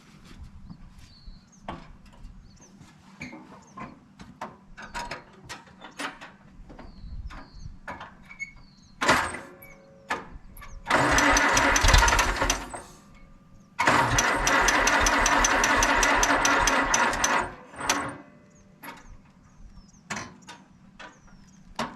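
Allis-Chalmers WD tractor's starter cranking its four-cylinder engine in two attempts, about two and then about three and a half seconds long, with an even pulsing beat. A weak battery barely turns it over, and the engine gives one little pop but does not start. Scattered clicks and knocks come before the cranking.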